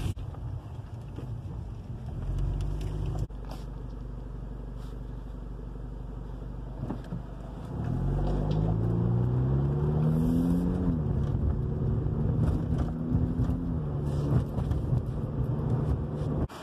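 Car engine and road noise heard from a moving car: a steady low rumble, then the engine speeds up about halfway through, its pitch rising, drops back near the end of the climb and settles into a steady run.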